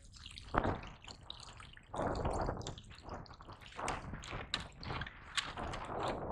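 Water splashing and dripping around a kayak on the sea: a few short splashes, then many small irregular drips and ticks.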